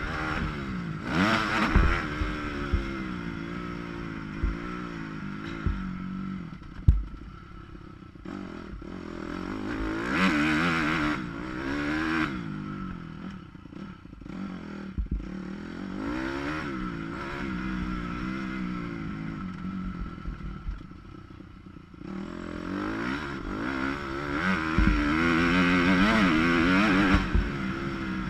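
Motocross dirt bike engine revving up and down again and again as it is ridden, with a few thumps and some clatter from the bike. The sound is muffled by a camera waterproof housing.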